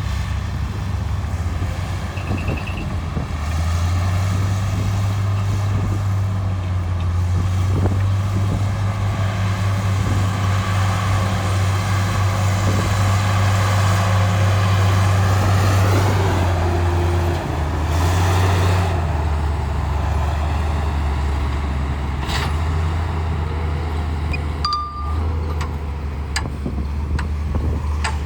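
Heavy earthmoving diesel engine running hard with a steady low drone. The drone steps up a few seconds in and drops back after the middle as the load changes. A few sharp knocks come in the second half.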